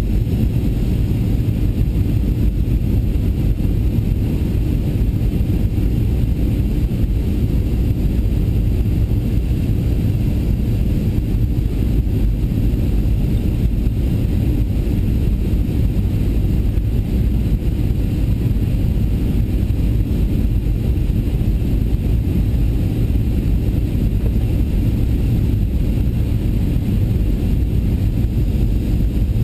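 Boeing 737-800 with CFM56-7B engines: a steady low rumble of engines and rushing air that holds unchanged throughout.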